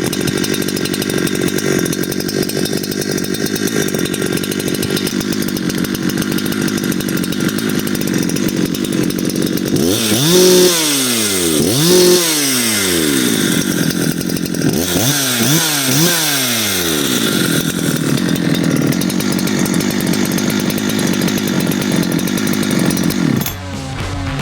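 Husqvarna 372XP clone two-stroke chainsaw idling, with the throttle blipped twice in quick pairs: each blip revs the engine up and lets it fall straight back to idle.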